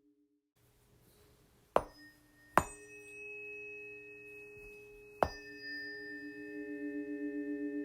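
Planetary tuning forks struck three times, about a second and then two and a half seconds apart. Each strike leaves a pure, steady ringing tone, and the overlapping tones waver against each other and build toward the end.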